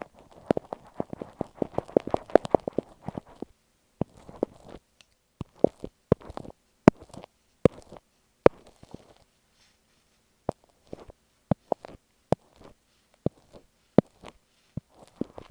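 Stick glue worked right against an earphone microphone: a dense run of sticky, crackling clicks for the first three seconds or so, then sparse single sharp clicks and taps with short crackly stretches between them.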